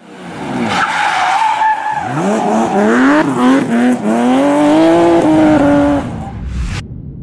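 Sports car engine revving hard as it accelerates, its pitch climbing and dropping back several times as it shifts up through the gears, then falling away near the end.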